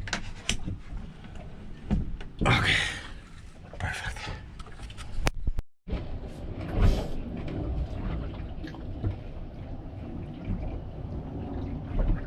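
Boat cabin windows being opened: clicks and knocks with two short scraping slides in the first few seconds. Then an abrupt cut to a steady low background rumble with a single knock soon after.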